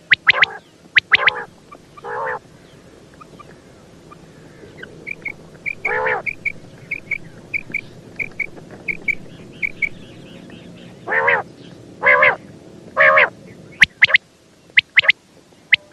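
Female common quail calling, a lure call used for quail hunting. There are sharp clipped notes in quick pairs, several longer pitched calls about a quarter-second long, and a run of soft high chirps at about two a second in the middle.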